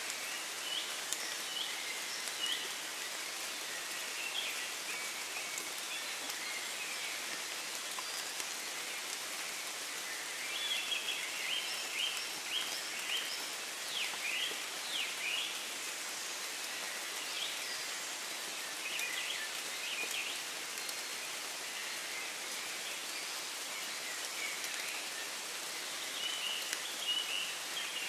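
Steady light rain falling in woodland, with birds chirping in short phrases over it. The birdsong is busiest about ten to sixteen seconds in and again near the end.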